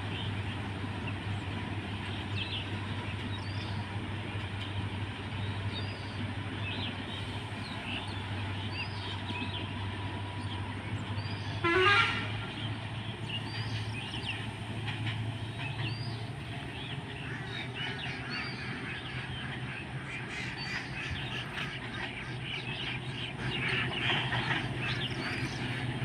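Diesel freight train pulling away: a steady low engine hum with rail noise from the wagons, and birds chirping over it. A short, loud horn toot sounds just before halfway.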